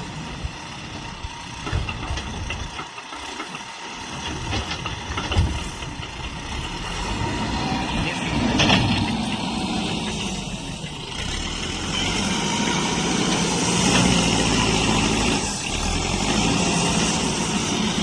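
Diesel engines of a backhoe loader and a truck running while sand is loaded, with a few sharp knocks. The engine grows louder and steadier about two-thirds of the way through.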